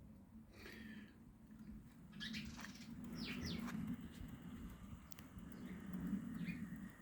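Fleischmann model S 10 locomotive running with its train: a steady low hum, with several short high squeaks over it.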